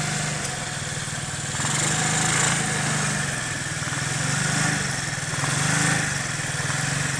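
Small engine of a custom-built mini monster truck running, its revs rising and falling in several swells as the truck is driven.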